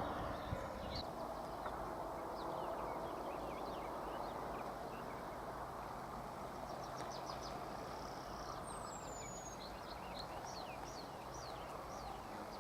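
Small songbirds chirping, many short quick calls that thicken in the second half, with one high falling whistle about nine seconds in, over a steady background hiss.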